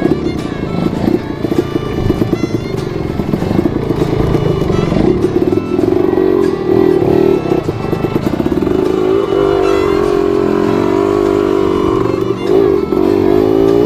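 Trail motorcycle engine running and revving as the bike rides a rough track, its pitch rising and falling with the throttle, with some clatter.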